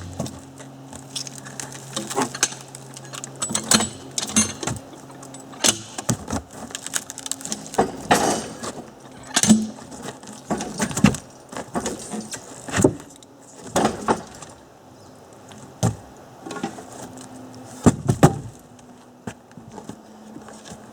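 Irregular knocks, thumps and scrapes of a large birch log being rolled by hand onto a sawmill carriage, with a low steady hum under the first couple of seconds.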